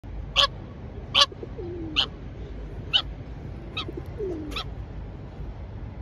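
Six short, sharp bird calls, roughly one every three-quarters of a second, with two low, falling coos from feral pigeons in between.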